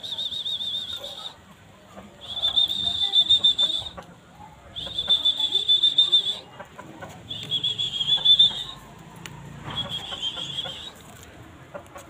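A bird's high, trilled whistling call, repeated five times in bouts of about a second and a half, roughly every two and a half seconds.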